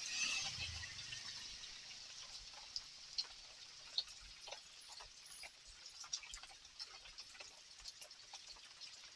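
Rain falling at night: a steady soft hiss with many scattered drips and taps on hard surfaces, a few sharper ones standing out. In the first second or so there is a brief louder swell with a low rumble.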